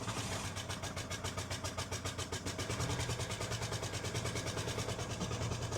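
Ford diesel engine idling with a rapid, even puffing, as combustion gases blow out past an injector that a broken clamp has let lift from its seat.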